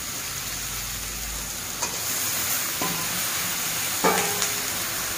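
Onion, tomato and potato sizzling steadily in oil in a large metal karahi, with a few sharp knocks as raw chicken pieces are tipped into the pan, the loudest about four seconds in.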